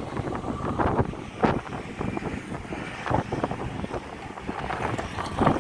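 Strong wind buffeting the phone's microphone in uneven gusts.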